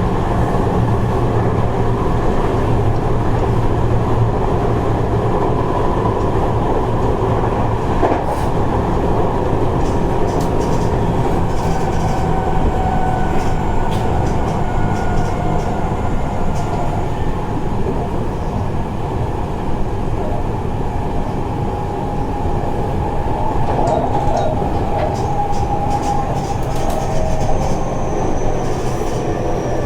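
Running sound heard inside a Seibu 30000 series electric train under way: a steady rumble of wheels on rail, with a faint whine from the drive gliding in pitch and a few scattered clicks as the wheels pass rail joints.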